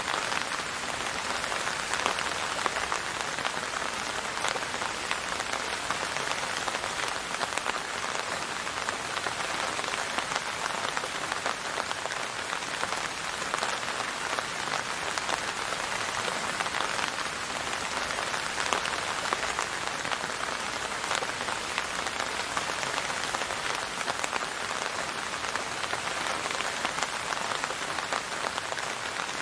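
Steady rain falling on a surface, a dense even patter of many drops with fine individual drop ticks and no letup.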